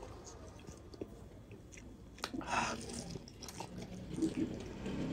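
Close-up chewing and mouth sounds of a man eating a handful of pork and rice by hand, small wet clicks throughout, with one louder bite about two and a half seconds in.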